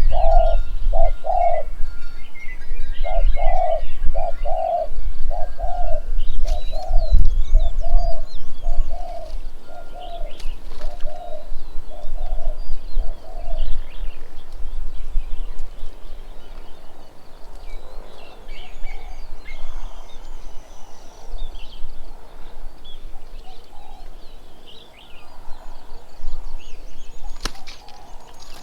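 A bird gives a long, even series of about a dozen low hooting notes, roughly one a second, which stop about fourteen seconds in. Smaller birds chirp and twitter higher up throughout.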